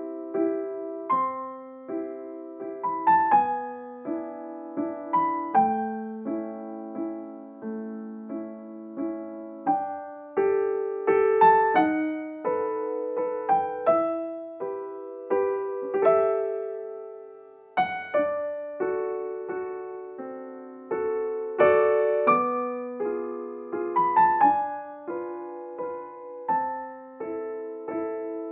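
Background music: gentle solo piano playing a slow sequence of chords and melody notes.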